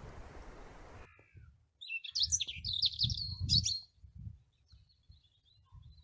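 Songbirds singing, with a fast run of high chirping notes between about two and four seconds in and fainter calls after it, over a low rumble on the microphone.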